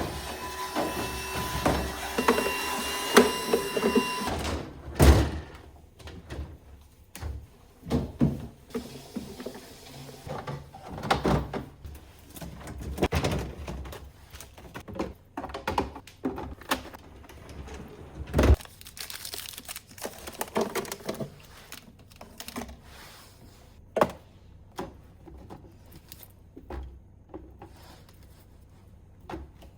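Irregular knocks, thunks and clatter of refrigerator shelves, drawers, bins and containers being taken out, handled and set down. A steady tone sounds over the first four seconds or so.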